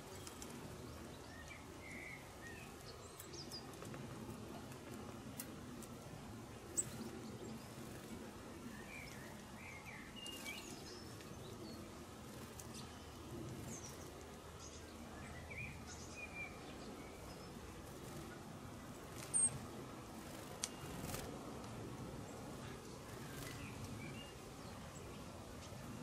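Small garden birds chirping in short, scattered calls over a steady low background noise, with a few sharp clicks.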